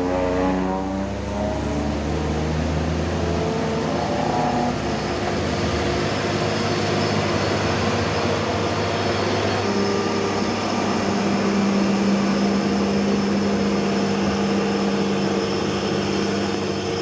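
Heavy diesel truck engine pulling up a steep grade, a steady loaded drone. A stronger steady tone joins in about ten seconds in.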